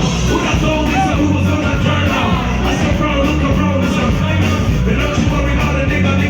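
Live band music played loud through a PA system, with a heavy bass and drum line and some singing.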